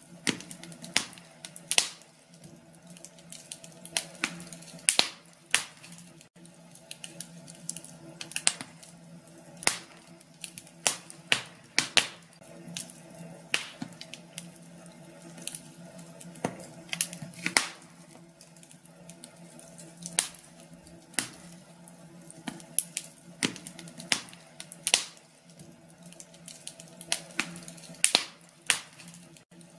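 Wood fire burning in a fireplace, crackling and popping irregularly, several sharp snaps a second, over a steady low hum.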